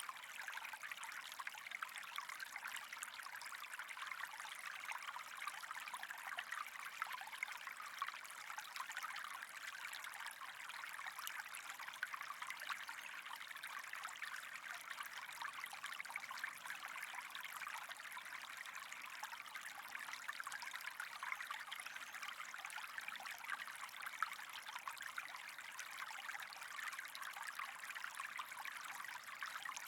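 Steady running, trickling water with a fine crackle, unchanging throughout.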